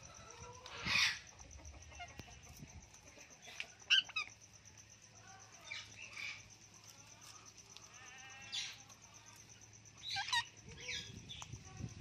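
Short bird chirps and squawks come a few seconds apart, the loudest about a second in and near four seconds in, with a quick trill between eight and nine seconds.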